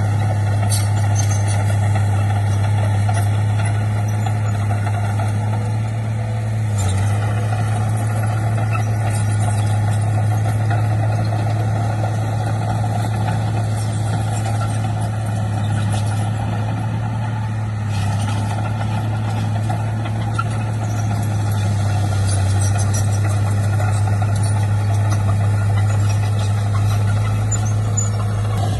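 Heavy diesel earthmoving engine running steadily at an even pitch, with a few brief clicks and knocks.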